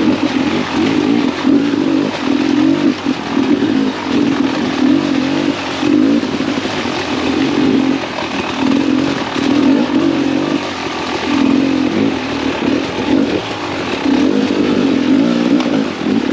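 Beta 300RR two-stroke dirt bike engine being ridden, revving up and easing off in repeated bursts of throttle every second or so.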